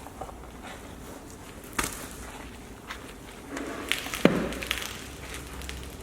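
Scattered clicks and knocks from detailing work on a car, with a sharp knock about two seconds in and a busier cluster just before the middle of the second half, its loudest knock a little past four seconds in.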